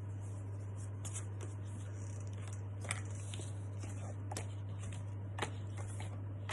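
Paper letter cards being handled and shuffled, giving light rustles and a few soft clicks, while a missing card is searched for. A steady low electrical hum runs underneath.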